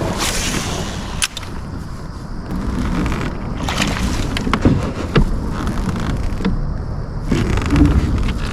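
Water sounds and small knocks aboard a kayak, as the just-caught sunfish is handled and released: a few spells of splashing and sharp clicks over a steady low rumble.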